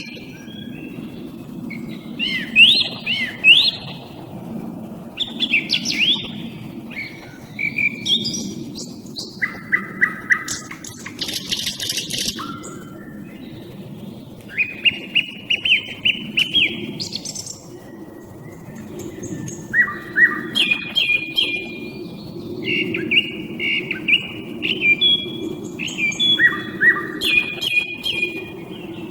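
Song thrush and common nightingale singing in a duel: short whistled and trilled phrases, many of them repeated several times over, with brief pauses between. A steady low hum runs underneath.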